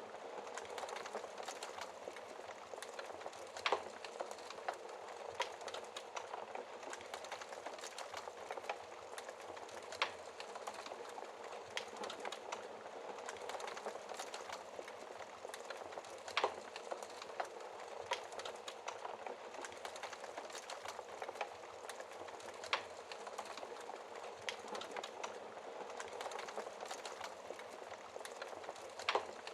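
Wood fire crackling in a fireplace: a steady hiss with many small snaps, and a louder pop about every six seconds.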